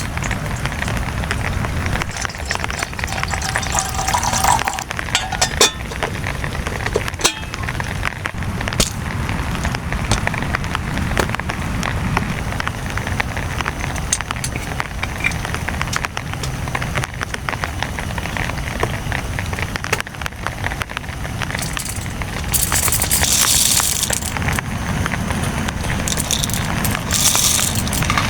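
Heavy rain drumming on a tent: a dense patter of drop ticks over a low rumble. There are two short bursts of loud hiss near the end.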